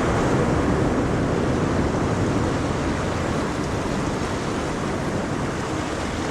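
Ocean waves washing on a shore, a steady rushing surf, easing slightly in loudness partway through.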